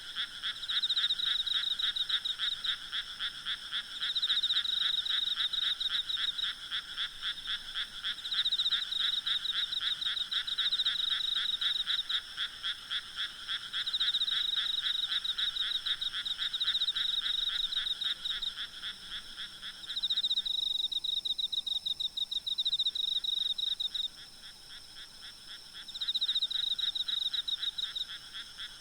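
Night chorus of frogs and insects in countryside fields: dense trains of rapid pulsed calls, the higher-pitched calling swelling in phrases of a couple of seconds. The lower-pitched part of the chorus stops about twenty seconds in, leaving the higher calls.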